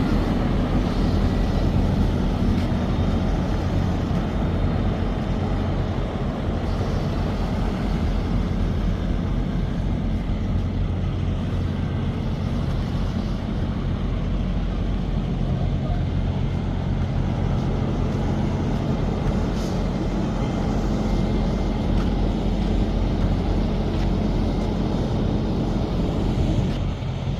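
Truck engine running with a steady low drone and road noise, heard from inside the cab.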